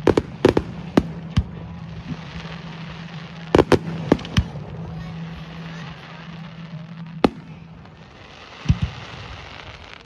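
Fireworks display: aerial firework shells bursting in sharp bangs, a quick cluster in the first second and a half, another around four seconds in, and a few single bangs later. A steady low hum runs underneath for most of it.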